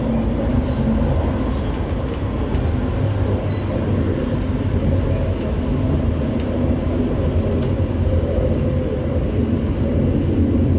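CAF Urbos 3 tram running at speed between stops, heard from inside the passenger saloon: a steady low rumble of wheels on rail with a faint, steady hum.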